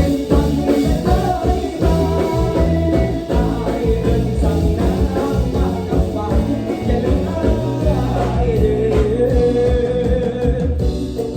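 Live Isan mor lam band playing an upbeat toei lam song, with a singer over bass and drums.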